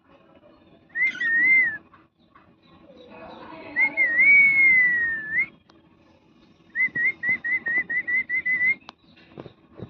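Parrot whistling: a short wavering whistle, then a longer one that slides up and down in pitch, then a quick run of about ten short whistles.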